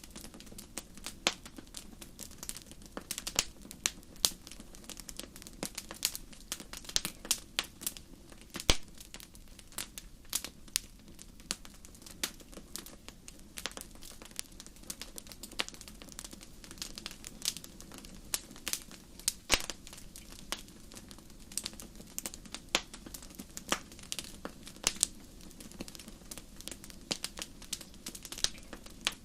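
Wood campfire crackling: irregular sharp pops and snaps, several a second, over a steady low background.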